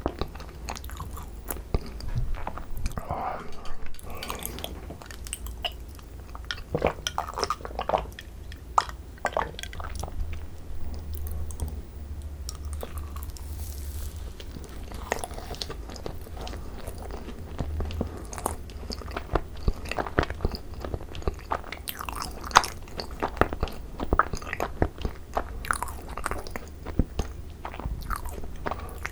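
Close-miked chewing of thick Korean-style macarons (ttungcarons): crisp shells crackle between the teeth and a soft filling is chewed wetly, with many small, irregular mouth clicks.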